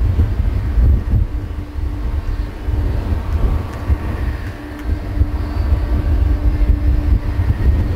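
Boeing 777-200 jet airliner's engines: a loud, low rumble with a faint steady whine above it.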